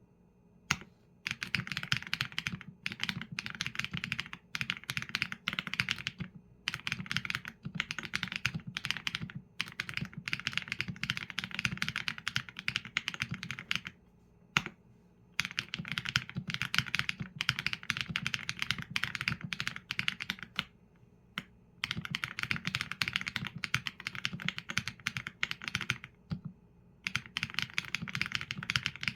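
Typing on a Qsenn A75 mechanical keyboard with Leobog Graywood V4 linear switches and PBT keycaps: fast runs of keystrokes in bursts of a few seconds, broken by short pauses, with one louder single stroke about halfway through.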